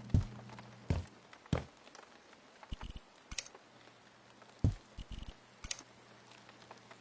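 Irregular knocks and thuds, some dull and heavy and a few with sharper clicks, about ten in seven seconds, as of objects being handled and set down in a small room. A low steady hum lies under them at the start and again from about halfway.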